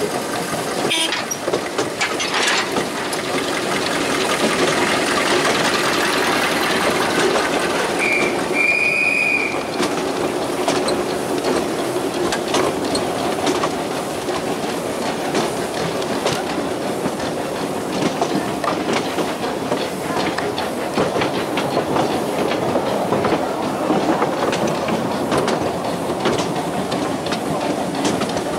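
Narrow-gauge passenger train running over jointed track, heard from an open-sided carriage: a steady rolling rumble with clicks over the rail joints. There is a brief high tone about eight seconds in.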